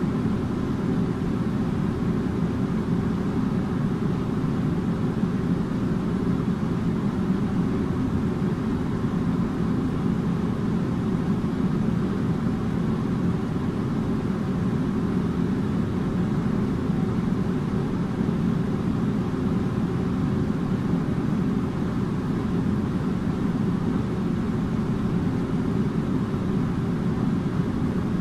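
Air conditioner running steadily: a constant low hum and rush of air, with a faint steady tone above it.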